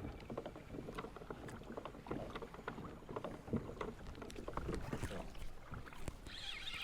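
Scattered light knocks and clicks of fishing gear being handled on a kayak, irregular and quiet.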